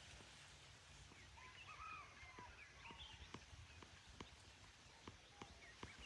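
Faint birdsong: a few short chirps in the first half, over quiet outdoor hiss and a steady series of soft clicks or taps, about two a second.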